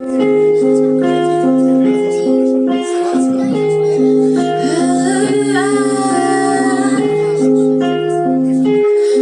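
Blues instrumental intro led by guitar: short plucked notes in a repeating riff over a held low note.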